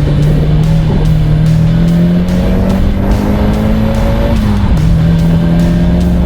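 Turbocharged Mazda Miata engine pulling hard, its note rising for about four seconds, then dropping sharply as it shifts up a gear and pulling again.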